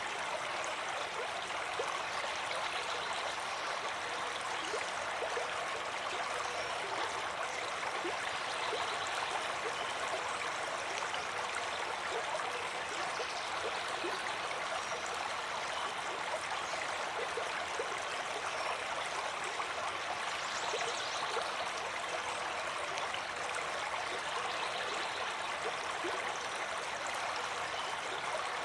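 Stream water flowing steadily, with small splashes and gurgles.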